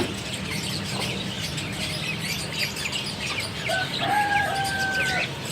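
Many caged birds chirping and tweeting without a break. Near the end comes one long held call lasting about a second and a half.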